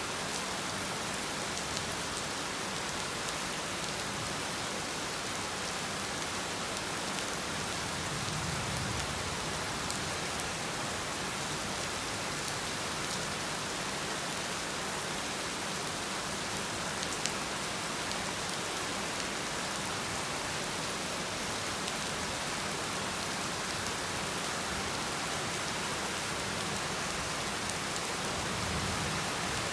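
Heavy rain falling steadily, with a few separate drops ticking close by now and then.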